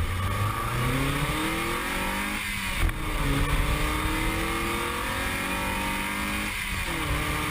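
Mazda MX-5's four-cylinder engine accelerating hard, its note climbing steadily in each gear, with an upshift drop about two and a half seconds in and another near the end, over wind and road noise.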